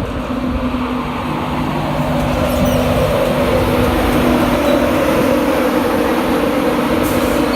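Train running, a loud steady drone with a constant hum that grows gradually louder.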